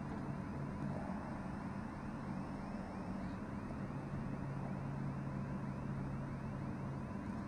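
Steady cockpit noise of a Cessna Citation M2 on final approach with gear down and full flaps extending: airflow and engine hum, with a low steady hum that stops about seven seconds in.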